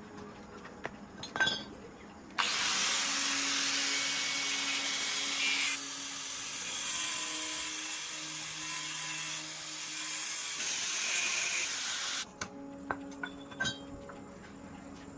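A power tool runs with a loud, steady hiss for about ten seconds, starting and stopping abruptly, with a few short knocks before and after it.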